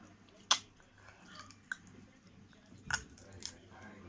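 A person chewing a mouthful of curry and rice, with a few sharp clicks of mouth or utensil. The loudest click comes about half a second in.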